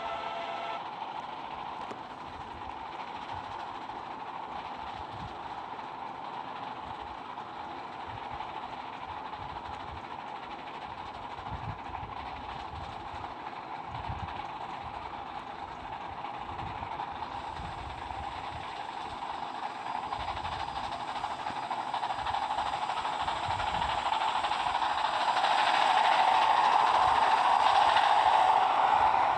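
A train running on the rails, a steady rumble that grows louder from about two-thirds of the way through and is loudest near the end as it draws nearer.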